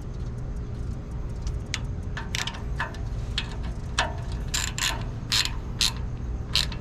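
Hand ratchet clicking in a dozen or so short, uneven strokes, driving the mounting bolts of a power window motor inside a truck door.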